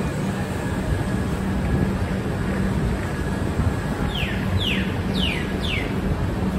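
Steady running rumble of a moving passenger train, heard from on board, with a low pulsing hum underneath. A little past the middle come four short falling chirps, about half a second apart.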